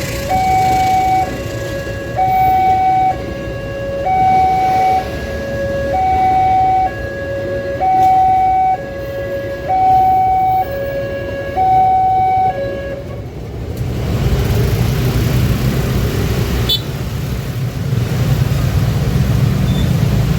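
Electronic two-tone warning alarm of an automatic railway level crossing, alternating a low and a high tone about once a second, then cutting off about 13 seconds in. Steady vehicle rumble follows.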